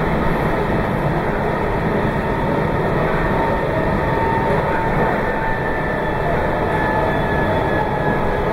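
Meitetsu 2200 series limited express electric train running, heard from inside the front car: a steady rumble of wheels on rail, with faint thin whines on top.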